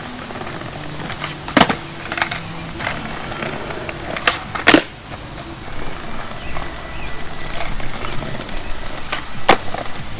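Brand-new skateboard rolling on pavement, its wheels running steadily, broken by about four sharp clacks of the board hitting the ground, the loudest nearly five seconds in.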